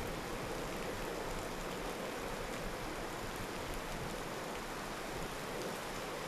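Steady heavy rain falling in a typhoon, an even hiss of water.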